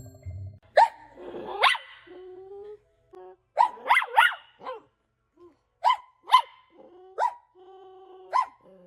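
A dog barking in short, sharp barks, about nine of them, with a lower drawn-out whine between some of the barks.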